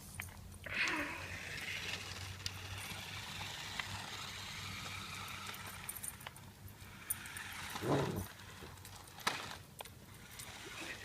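Toy RC truck running, a steady mechanical hum with scattered clicks and knocks. There are two louder short sounds, one about a second in and the loudest near eight seconds.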